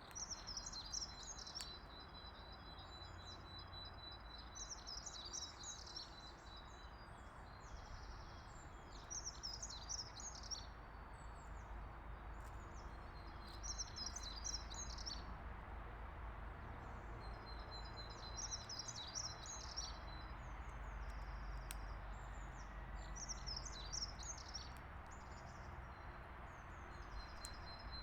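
A songbird singing, repeating one short high phrase about every four to five seconds, each phrase trailing into a thin steady trill. A faint steady low outdoor rumble lies underneath.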